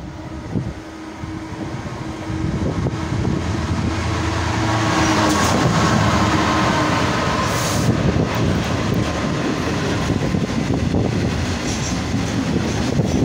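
Class 66 diesel freight locomotive, with its EMD two-stroke V12 engine, approaching and passing close by, the sound building to its loudest as the engine goes past. A long rake of coal hopper wagons follows, its wheels clicking over the rail joints.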